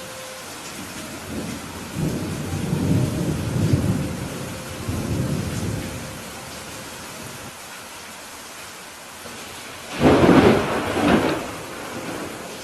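Steady rain with rolling thunder: low rumbles swell and fade over the first half, then a louder, sharper thunderclap breaks about ten seconds in and rumbles away.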